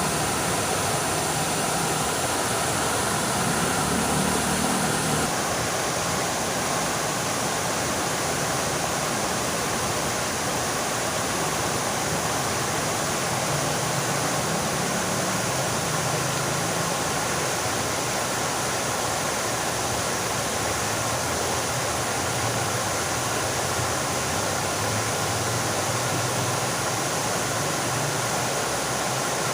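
Fountain water splashing in a steady, even rush, with a small change in tone about five seconds in.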